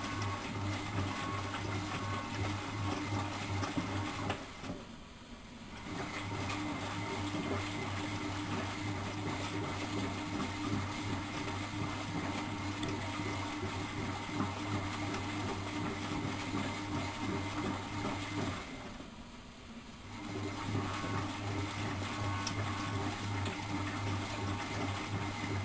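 Miele Professional WS 5105 washing machine running its wash, the motor humming steadily with water churning in the drum. The motor stops twice for about a second and a half, about five seconds in and again near nineteen seconds, then starts again, the pauses of the drum turning first one way and then the other.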